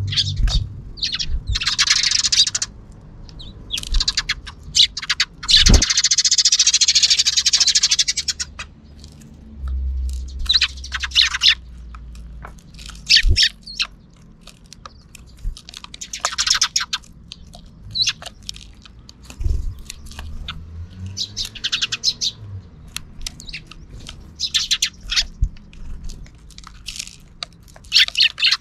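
Sparrows chirping close by in repeated short bursts, with a longer dense run of chattering about six seconds in. A few low knocks sound between the calls.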